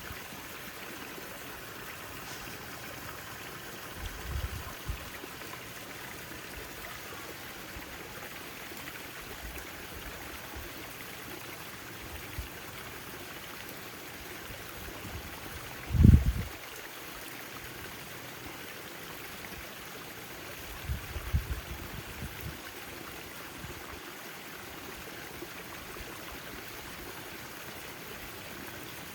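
Backyard fountain water splashing and trickling steadily. A few brief low rumbles break through it, the loudest about halfway.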